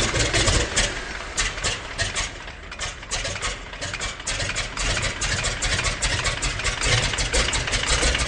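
Rebuilt 1950 RGU 2.5 cc two-stroke model diesel engine running unevenly, its sound broken by many irregular sharp pops.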